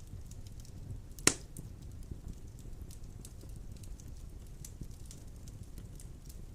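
Wood fire burning in a stone fireplace: a low steady rumble of flames with scattered small crackles, and one loud sharp pop of the burning wood about a second in.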